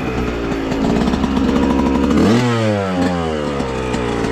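Dirt bike engine running, revving up sharply a little over two seconds in, then falling back as the throttle closes.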